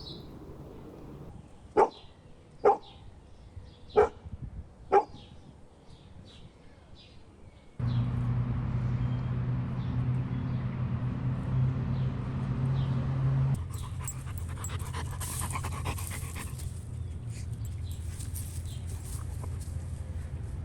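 Golden retriever barking four times in the first five seconds or so. About eight seconds in, a steady low drone starts suddenly and runs on, with a high hiss over it from about two-thirds of the way through.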